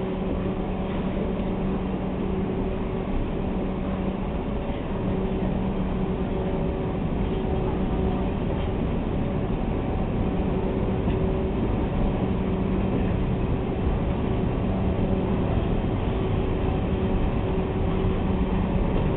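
A train standing at a station platform: a steady machinery hum of a few even tones over continuous rumble, with no chuffing. The locomotive has not yet started to move.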